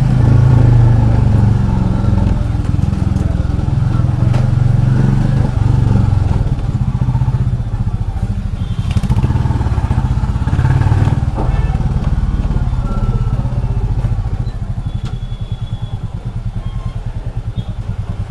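Royal Enfield Classic 350's single-cylinder engine running while ridden at low speed, a steady low thumping beat; in the last few seconds the beat grows quieter and more distinct.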